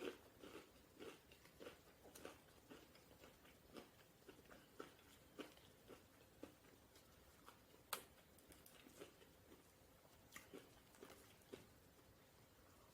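Faint chewing of a person eating close to the microphone: soft, wet mouth clicks about twice a second, with one sharper click about eight seconds in.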